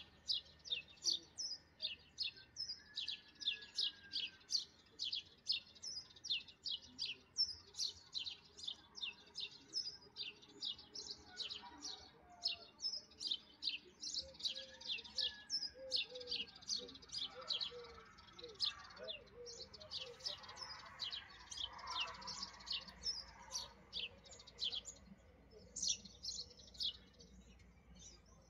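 A small bird chirping over and over, several short high chirps a second without a break.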